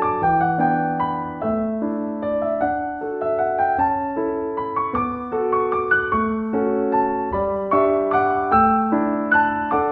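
Background piano music, a slow, gentle melody of notes struck and left to ring.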